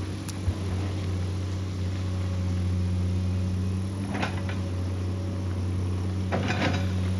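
Excavator's diesel engine running at a steady pitch, with brief clattering bursts about four seconds in and again near the end.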